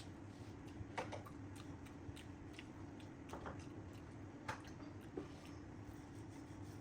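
Close-up eating sounds of rice and curry: wet, squishy chewing with sharp little clicks of the mouth, the loudest about a second in and again around four and a half seconds, over a steady low hum.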